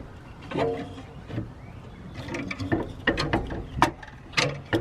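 Irregular metallic clicks and knocks of an alternator being worked into the engine bay, knocking against its bracket and the nearby lines, coming thicker in the second half.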